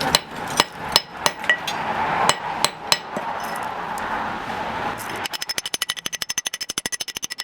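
Hammer blows on steel in knife forging: irregular ringing strikes over a steady rushing noise, then, about five seconds in, a fast, even run of strikes at about ten a second.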